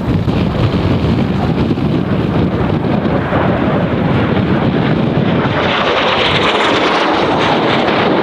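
Jet noise from Kawasaki T-4 jet trainers passing overhead, growing louder about three seconds in, with a high whine falling in pitch near the end. Heavy wind buffets the microphone throughout.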